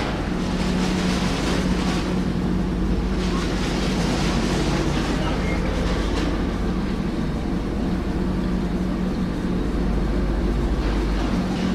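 Heavy construction machinery running steadily: an even engine rumble with a constant low hum underneath.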